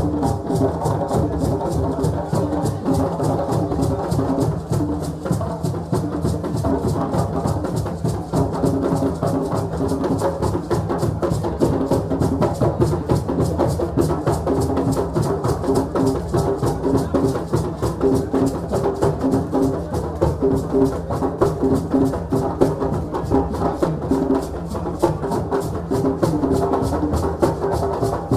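West African celebration drumming: many drums and other percussion played together in a dense, fast, steady rhythm.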